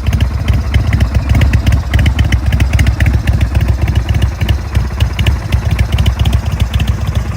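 Indian Chieftain's 116 cubic inch big-bore V-twin engine idling with a steady, pulsing rumble and a light, rapid ticking over the top.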